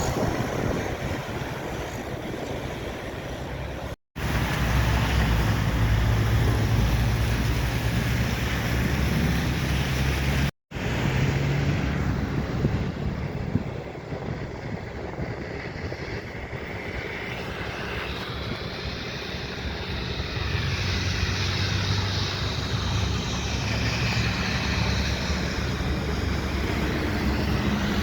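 Road and rail traffic near a station: a steady low engine hum of passing vehicles, broken by two abrupt edit cuts. Later come faint whines that slide in pitch, as from electric traction motors.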